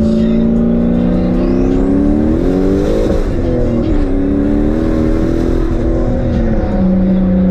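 Turbocharged 1998 Chevrolet Camaro SS V8 pulling under acceleration. The engine pitch climbs for about a second and a half, drops sharply around three seconds in, holds, then settles lower near the end, with a faint high whistle rising as the revs climb.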